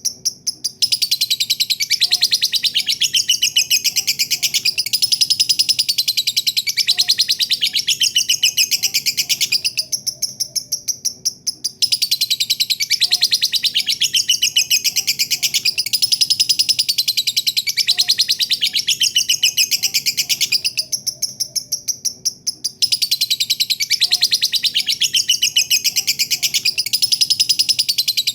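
Lovebird 'ngekek': a long, rapid, high-pitched chattering trill that runs on for many seconds at a time and fades briefly twice before starting again.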